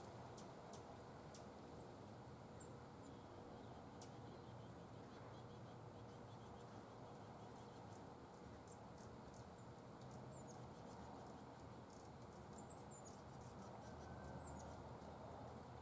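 Faint hummingbird sounds at a feeder: scattered soft ticks and a few short, high chip notes, mostly in the last few seconds. Under them is a steady high insect whine that stops about three-quarters of the way through.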